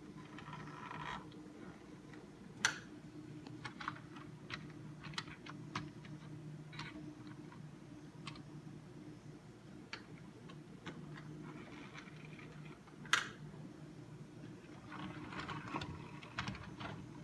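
Model train running on its track: a faint steady hum with light, irregular clicks, two sharper clicks about three and thirteen seconds in.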